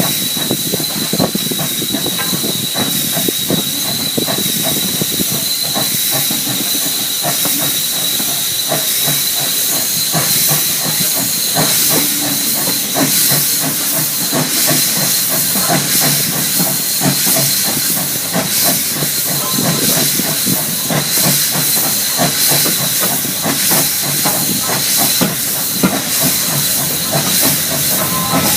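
Steam train on the move: a steady hiss of steam with a thin, high, steady tone over it, and a dense run of knocks and rattles underneath.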